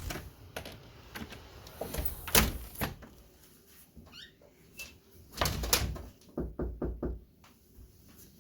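A scattering of sharp knocks and taps. A short rising squeak comes near the middle, then a quick run of about six knocks.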